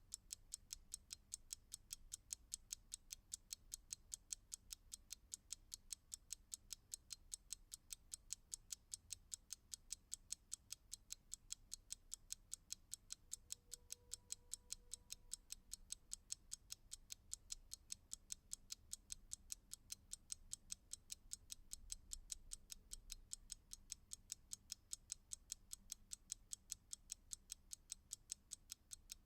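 Clock ticking in a quiet, rapid, even run of sharp ticks, several a second.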